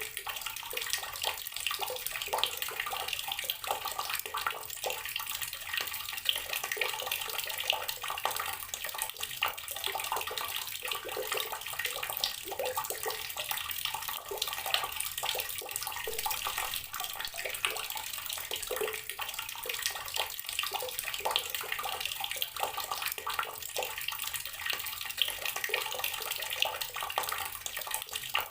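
Water running steadily from an outdoor tap and splashing onto the ground below, with many small spatters and no change in flow.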